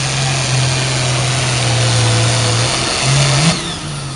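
A pulling tractor's engine running hard under load, then dropping off sharply about three and a half seconds in as the pull ends.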